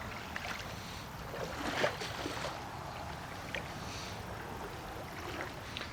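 A person wading in sandals through a shallow creek: water sloshing and splashing around the feet, with a louder splash just under two seconds in, over a steady wash of noise from the flowing water.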